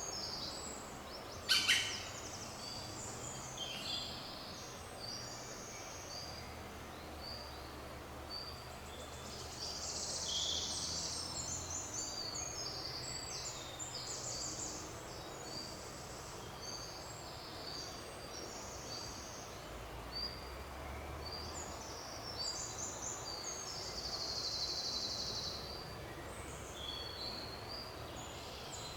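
Several small birds singing in a forest, a dense chorus of short high chirps and trills, with a single sharp click about a second and a half in.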